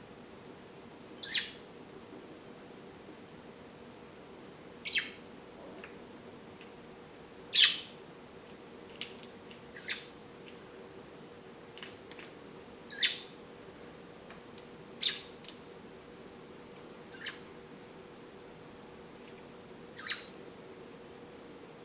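Pet robin giving short, sharp high chirps, eight of them a couple of seconds apart, over a faint steady hum.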